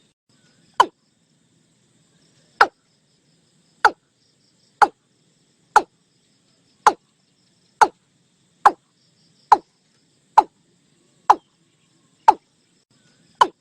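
Watercock (Gallicrex cinerea) calling: a series of short notes, each falling in pitch, repeated about once a second.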